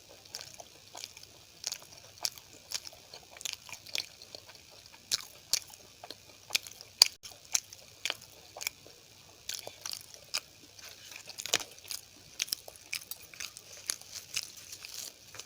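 Close-miked chewing and wet mouth clicks of someone eating a meal of poori, rice and potato curry. There are irregular short clicks, a few each second, with a sharper one about halfway through.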